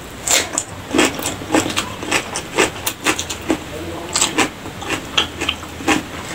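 Close-up chewing of raw cucumber: crisp, wet crunches about three a second.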